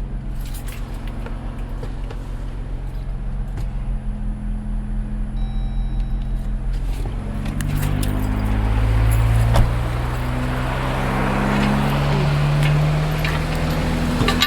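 Vehicle engine running steadily, then revving up about halfway through and holding higher revs for several seconds, with a rushing noise alongside, before easing off near the end.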